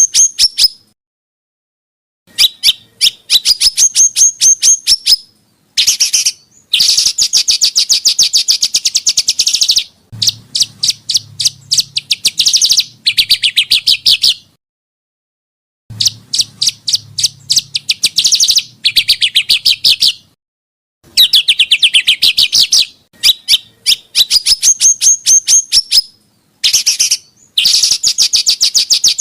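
Small songbird singing in bursts of rapid, sharp chipping notes, several a second, in phrases of two to four seconds broken by short pauses. This is the fast 'tembakan' song used in masteran recordings, with some phrases repeating as edited loops.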